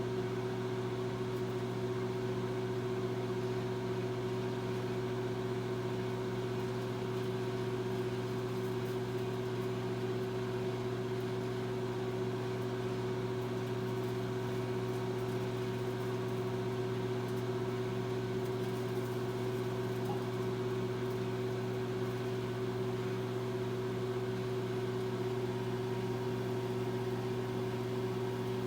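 Microwave oven running: a steady, unchanging hum with a low drone and a few constant higher tones above it.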